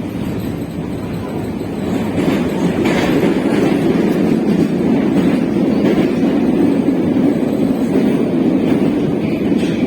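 Moscow metro train running through the tunnel between stations, heard from inside the carriage: a steady rumble of wheels on rails with a few faint clacks spaced about three seconds apart. The rumble grows louder about two seconds in.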